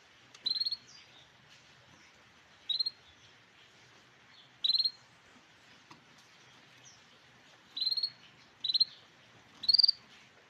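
Grey canary giving six short trilled calls, each a quick rattle of notes under half a second long, spaced one to two seconds apart; the last is the loudest.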